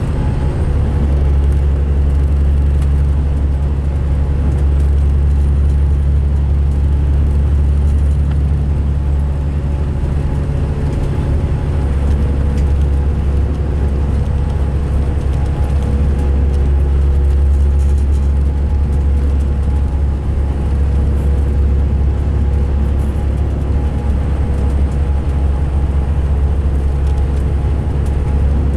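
Diesel engine of a 2005 MCI D4500 coach bus running steadily with a strong low drone and a few steady higher tones. The uploader says this coach sounds rough running and idling.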